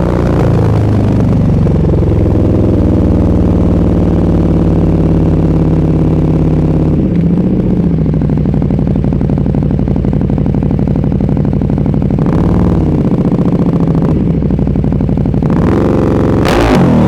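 Motorcycle engine running at low revs, its pitch falling at first and then holding steady, with brief rises in revs twice and a sharper burst near the end.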